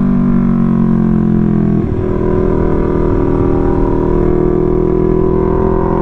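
Yamaha R3's parallel-twin engine running at a steady pitch while riding, with wind rumble on the helmet mic. About two seconds in the note briefly dips, then steps up and holds.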